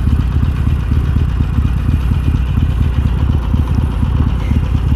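Harley-Davidson Iron 883's air-cooled V-twin engine idling, a steady low rumble that cuts off just at the end.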